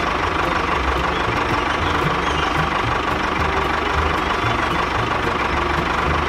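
A mini tractor's small engine running steadily with a low, uneven chugging.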